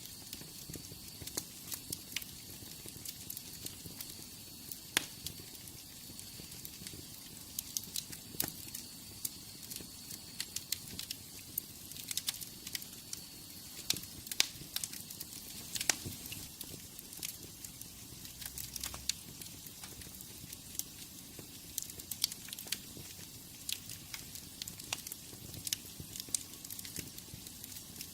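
Wood fire in a fireplace crackling: irregular sharp pops and snaps over a soft, steady hiss of the flames.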